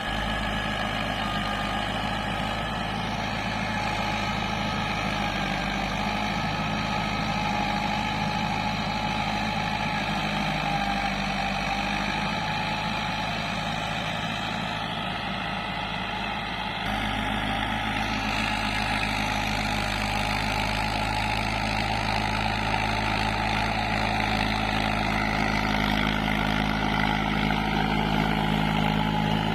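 Tractor's diesel engine running steadily, its note stepping up slightly a little past halfway.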